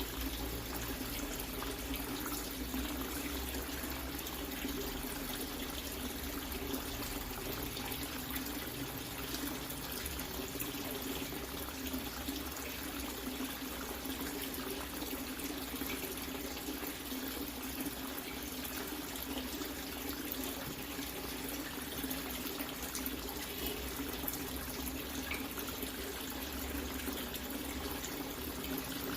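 Water running steadily in a constant stream, splashing into standing water.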